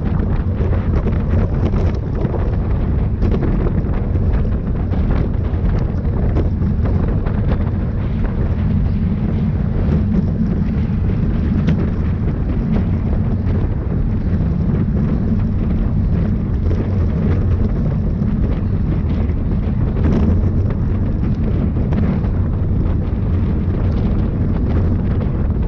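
Wind rushing over the microphone of a camera carried on a bicycle at racing speed: a steady, low rumble with light irregular ticks on top.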